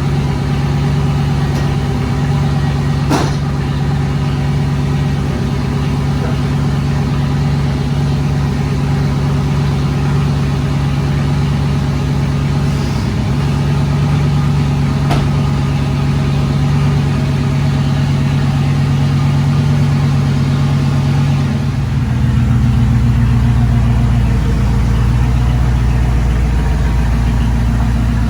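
A truck engine running steadily; about 22 seconds in its note drops deeper and gets a little louder.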